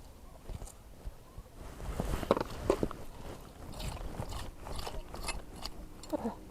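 Irregular scraping and crunching of a hand tool raking through sand and shells while digging for Venus clams, with a few louder strokes about two to three seconds in.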